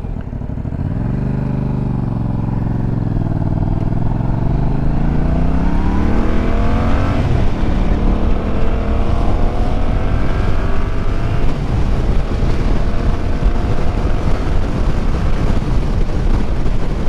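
Motorcycle engine accelerating through the gears, rising in pitch, dropping at an upshift about seven seconds in, then rising again. After that, wind noise rushing over the helmet microphone grows louder and covers the engine.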